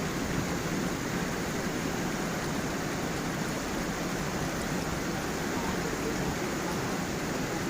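Water of a small waterfall and stream flowing steadily over stones, a constant rush with faint gurgles.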